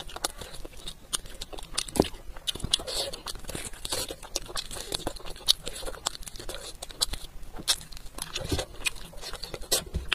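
Close-miked mouth sounds of someone biting and chewing a piece of meat: irregular crunches, smacks and sharp clicks.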